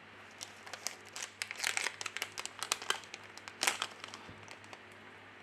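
Irregular crinkling and small sharp clicks of small plastic parts being handled, dying away about half a second before the end.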